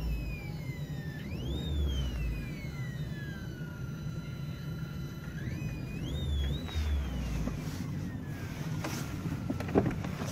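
Ford Focus 3 car speakers whistling, a thin high tone that climbs sharply when the engine is revved and slowly sinks as the revs fall. It climbs once about a second in and again in several steps around five to seven seconds in, along with low engine rumble. This is a whine picked up by the audio system's wiring, later traced to the rear left speaker and tied to switching on the headlights. A couple of clicks near the end.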